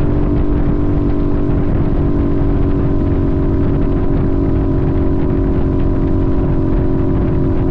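Sportbike engine running at a steady cruising speed, its note held at one pitch over a heavy low rumble of wind and road.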